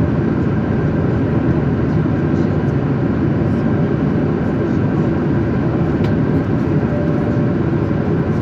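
Steady cabin noise of an airliner in flight: engine and airflow noise, deep and unbroken, with a faint click about six seconds in.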